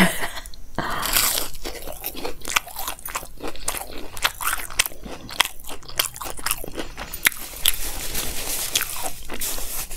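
Close-miked biting and chewing of a crispy double-fried cauliflower pakora: a crunchy bite near the start, then chewing full of irregular crunches.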